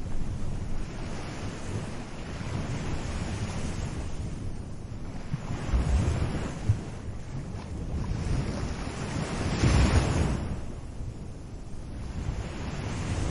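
Small ocean waves breaking and washing up the beach, swelling and fading every few seconds and loudest about ten seconds in. Wind rumbles on the microphone, and a brief sharp knock comes just before seven seconds.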